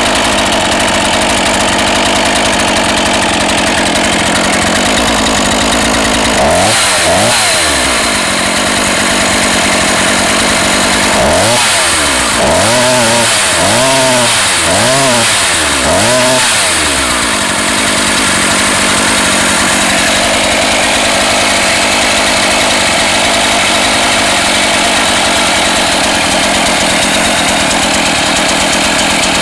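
NEO-TEC NH 841 two-stroke gasoline chainsaw idling. It is revved once about seven seconds in, then blipped four times in quick succession around the middle, and drops back to idle each time. The idle is set high enough that the chain creeps, a sign the carburetor idle needs turning down.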